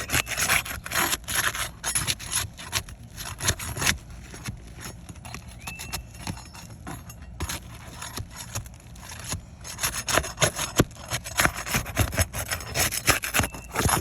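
Asphalt roof shingles being pried up to break their seal strip: a tool scraping and clicking against the shingles and nails in quick, uneven strokes, busiest at the start and again in the last few seconds, with a short squeak about six seconds in.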